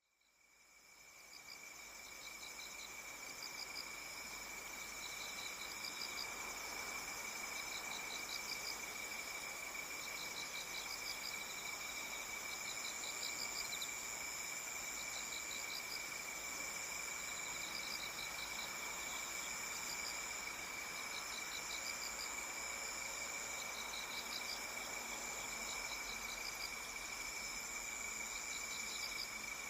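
A chorus of insects singing, such as crickets: a steady high-pitched trill with repeated short pulsed chirps over it. It fades in over the first couple of seconds, then holds steady.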